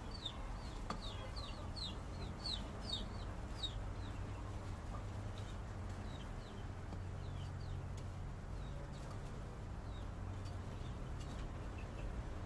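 Birds chirping: a quick run of short, high, falling chirps over the first few seconds, then sparser ones, over a low steady hum.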